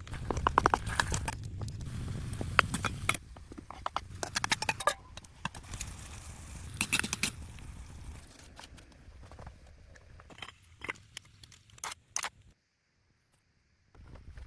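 Irregular crackling, clicks and scraping, busiest in the first few seconds and thinning out. The sound cuts off suddenly to dead silence for about a second and a half near the end, then resumes.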